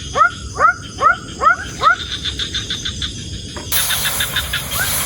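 An animal calling over and over, about twice a second, each call a short note sliding upward, followed by a faster run of high clicks. Near the end a steady hiss cuts in suddenly, with the calls fainter behind it.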